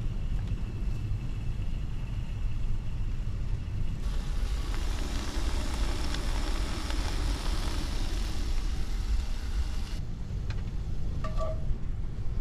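Steady low wind rumble on the microphone. For several seconds in the middle, thin-sliced beef sizzles and crackles in a pan. Two short chirps come near the end.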